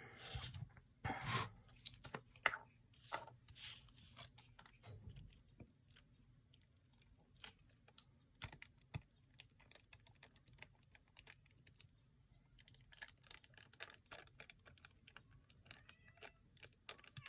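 Quiet handling of paper and craft materials: scattered small taps, clicks and rustles, busier in the first few seconds and again near the end.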